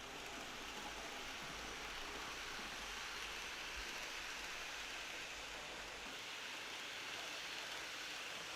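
Steady, even hiss with no distinct events, like light rain.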